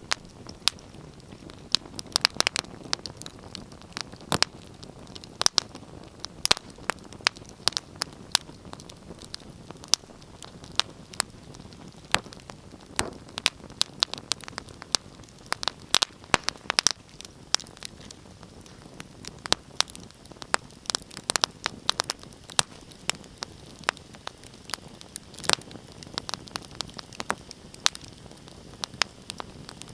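Wood fire crackling: frequent irregular sharp pops and snaps over a steady low hiss.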